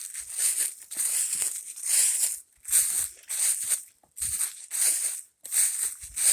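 Footsteps crunching through dry leaf litter and twigs at a steady walking pace, about two crackling steps a second.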